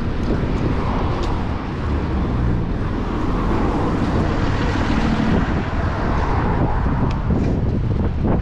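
Road traffic passing, over a steady low rush of wind on the microphone.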